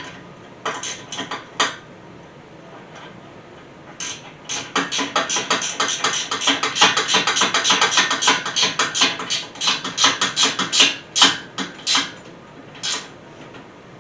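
Rapid runs of sharp metallic clicking and rattling: a few clicks about a second in, then a long busy stretch in the middle that trails off near the end.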